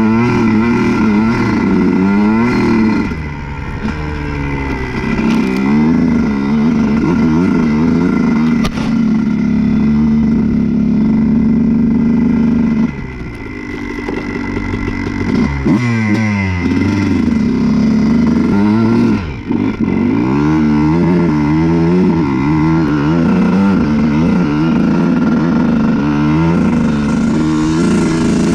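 Honda CR125's single-cylinder two-stroke engine revving up and down as the dirt bike is ridden, holding steady high revs for a few seconds, dropping sharply about halfway through, then climbing again in repeated surges.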